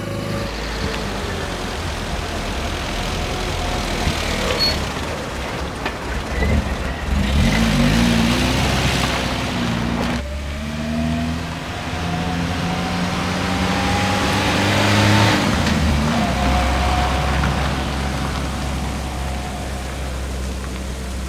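Car engine running as the car drives along a road. Its pitch climbs gradually, drops back about halfway through and then climbs again.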